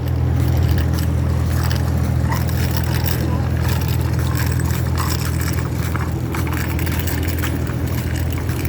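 Wind buffeting the phone's microphone while riding along on a bike, a steady low rumble with faint crackle over it.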